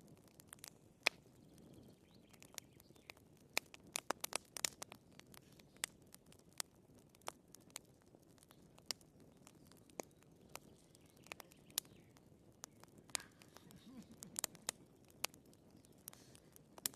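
Wood fire burning in a fireplace: irregular sharp pops and snaps of burning firewood over a faint low rustle of flame, with a brief flurry of pops about four seconds in.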